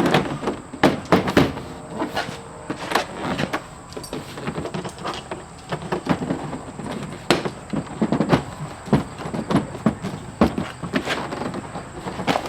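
Irregular knocks, clunks and rattles, several a second, from hands-on work fitting the fiberglass engine cowling onto a light aircraft.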